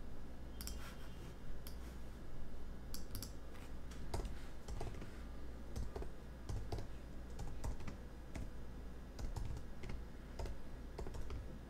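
Typing on a computer keyboard: irregular keystroke clicks as a short phrase is typed, over a low steady hum.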